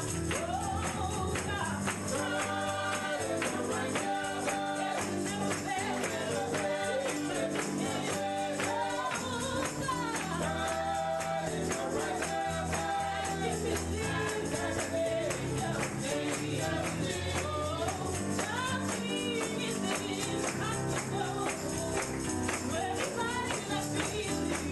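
Gospel music with singing voices over a steady shaken tambourine rhythm and bass notes.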